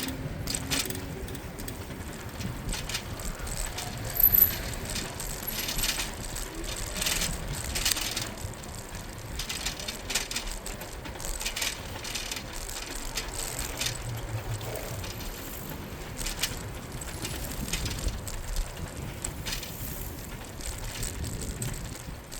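A bicycle being ridden on a city cycle path, its frame and parts giving many small clicks and rattles over the surface, with a sharp clack about four seconds in. Street traffic runs underneath, with a low hum building around fourteen seconds.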